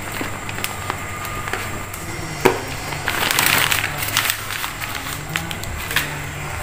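Chewing and crunching of fried chicken and rice, with scattered sharp clicks. There is one louder click about two and a half seconds in and a crackly rustling stretch around three to four seconds in.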